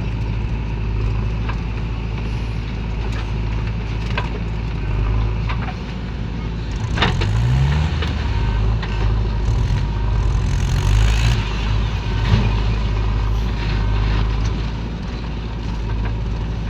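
Diesel engine of a JCB backhoe loader running steadily, with a rising rev about seven seconds in as it works under load, and scattered knocks.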